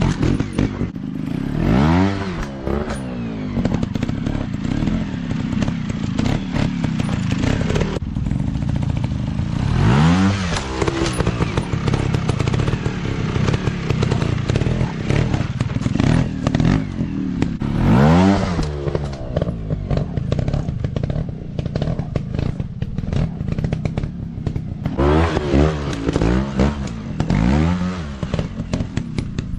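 Dirt bike engine running and revving up in repeated surges, several times, each rising sharply in pitch and then dropping back.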